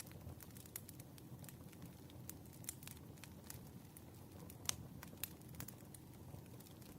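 Burning firewood crackling faintly, with irregular sharp pops and snaps over a low steady rumble; one louder pop about halfway through.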